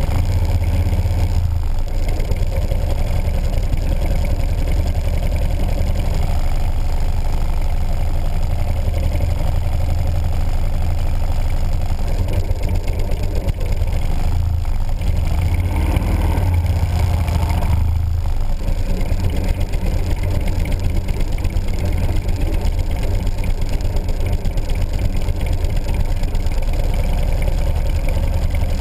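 Motorcycle engine running steadily at low speed as the bike rolls across wet pavement, heard close-up, with a short swell in the sound about halfway through.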